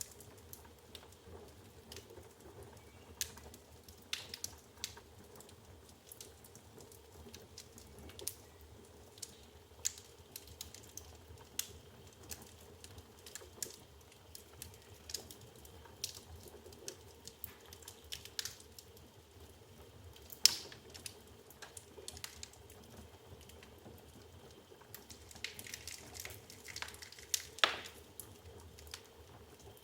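Wood logs burning in an open fireplace: irregular crackles and small pops over a faint hiss. One sharp pop comes about two-thirds through, and a short run of hissing and crackling comes near the end.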